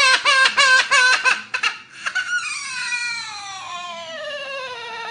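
Parrot imitating human crying: a quick run of sobbing notes, about six a second, then one long wail that slides slowly down in pitch.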